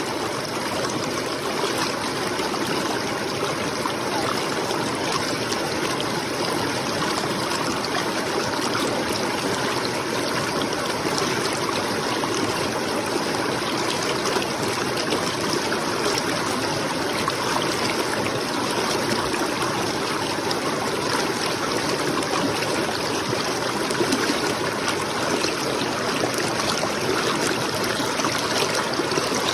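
Water of a stream running steadily, an even rushing and trickling that doesn't change.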